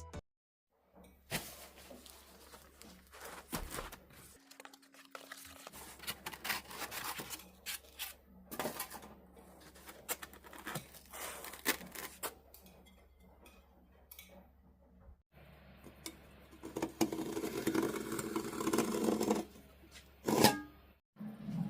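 Scattered handling noises, short clicks, taps and scrapes, over a faint low hum, with a louder stretch of scraping near the end.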